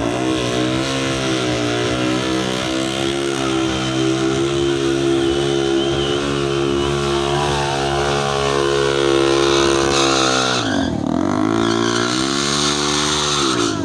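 Motorcycle engine running at high, steady revs. About eleven seconds in the revs drop sharply and then climb back up.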